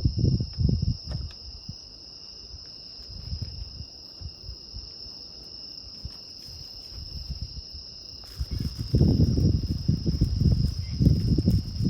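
Insects trilling steadily in a high, unbroken tone, with a low rumble that comes and goes, loudest in the first second and from about nine seconds in.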